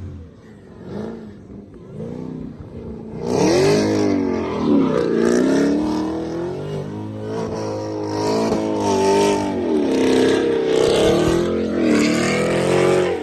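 Camaro ZL1's supercharged LT4 V8 being revved hard. It starts quieter; from about three seconds in the pitch rises and falls over and over, roughly once a second.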